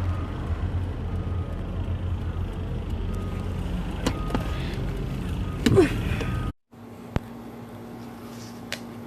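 Steady low road rumble inside a moving car, with a brief louder sound about two-thirds through. The rumble cuts off suddenly and gives way to a quieter steady hum, with a single sharp click soon after.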